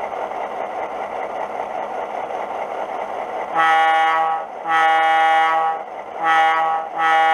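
Sound-decoder diesel locomotive idling, played through the small sugar cube speaker of an HO scale GP-7 model, then the decoder's Wabco E2 air horn sound starting about halfway in. The horn gives four blasts, long, long, short, long: the grade-crossing pattern. The last blast is still sounding at the end.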